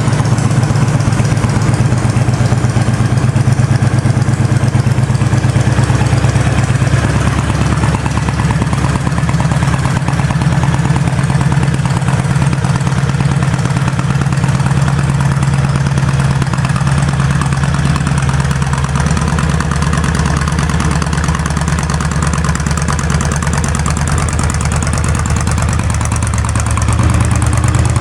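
Honda VTX 1300's V-twin engine idling steadily through a slash-cut slip-on exhaust, a deep, even rumble.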